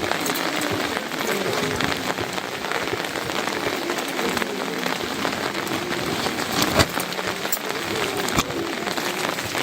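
Heavy rain falling steadily, with many sharp drop impacts close to the microphone; one louder hit about two-thirds of the way through.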